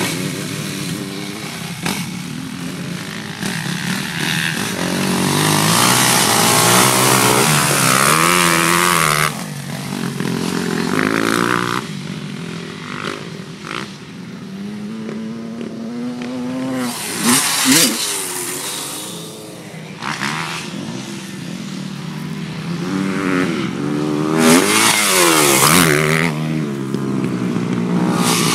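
Motocross bikes running on a dirt track. The engine pitch keeps rising and falling as the riders accelerate and shift. Bikes pass close by about two-thirds of the way through and again near the end, their pitch dropping as they go past.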